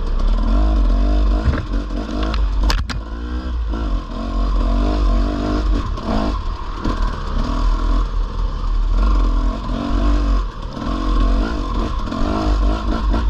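Dirt bike engine revving up and easing off again and again while riding a sandy trail, with a heavy low rumble underneath and a sharp clatter about three seconds in.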